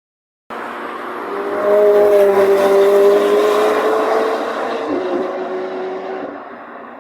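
A sports car driving past, its engine note swelling to a peak two to three seconds in and then fading away.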